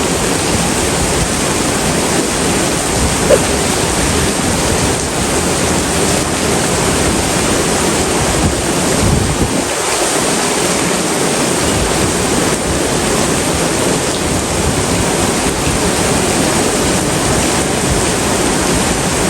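Stormy coastal weather: strong wind buffeting the microphone over a steady rush of water. The low rumble drops away briefly about ten seconds in.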